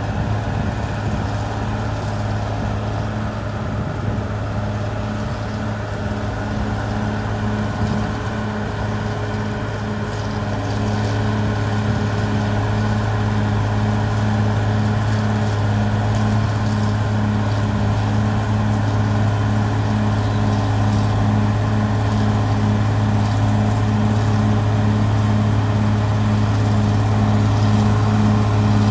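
Caterpillar D6R XL bulldozer's diesel engine running steadily under work, a low hum with a regular throb about one and a half times a second. It gets a little louder about eleven seconds in.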